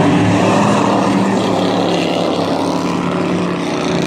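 Dirt-track race truck engines running as the trucks circle the track, a steady engine drone with its pitch shifting slightly.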